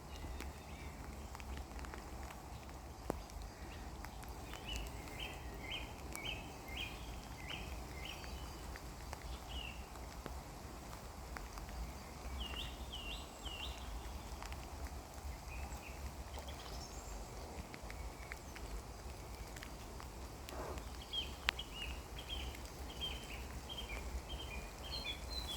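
Birds singing in light rain: short, quick phrases of song come several times over a steady hiss of rain. Scattered sharp clicks of drips and a low rumble run underneath.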